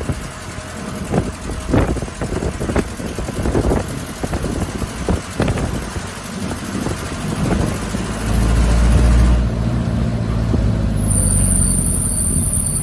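Open-air taxi truck: a run of knocks and rattles, then about eight seconds in its engine running steady and loud.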